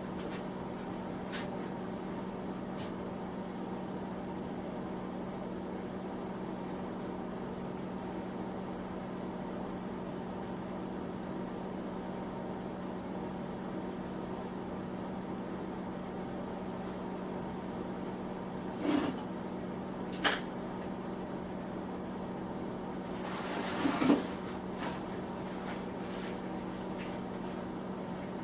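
Steady electric hum of a small shop heater. Two sharp metallic knocks come about two-thirds of the way in, followed by a short scrape ending in a knock near the end, as parts of the Bridgeport mill are handled.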